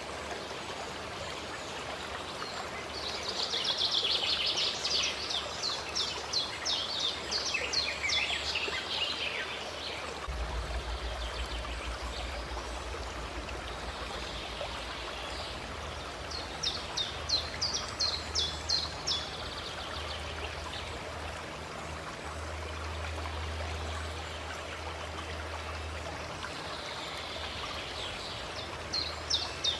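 Water running steadily, like a small fountain or stream, with a songbird giving rapid trilled phrases: a long one a few seconds in, a shorter one past the middle, and another starting near the end.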